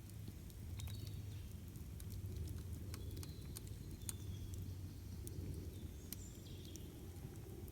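Campfire crackling, with many sharp irregular pops and snaps over a low, steady rumble of burning wood. A few short, high bird chirps come through in the background.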